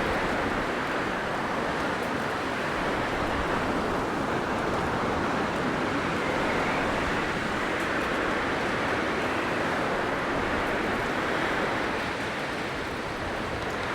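Blizzard wind blowing in a dense, steady rush that swells and eases a little, dipping slightly near the end.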